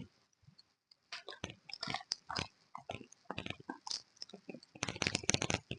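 Close-up eating sounds: irregular bites and chewing with sharp little clicks, thickest near the end.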